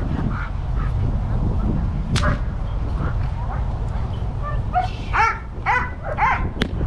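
A Dobermann barking: a single bark about two seconds in, then a quick run of barks, about two a second, in the second half, over a steady rumble of wind on the microphone. A sharp crack sounds near the end.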